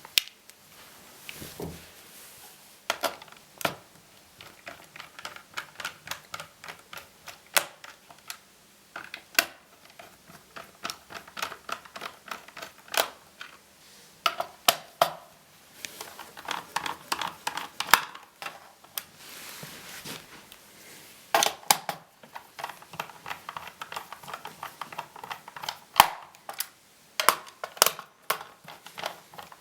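Irregular small clicks and taps, several a second at times, with a few short scrapes: plastic and small metal parts of a laptop being handled as the screws of its bottom case are taken out.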